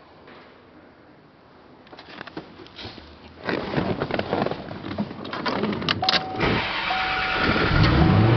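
Clicks of keys and controls, then the 1990 Corvette ZR-1's LT5 double-overhead-cam V8 cranking and catching about three and a half seconds in, and settling into a steady idle that grows louder toward the end. A high chime repeats on and off over the idle.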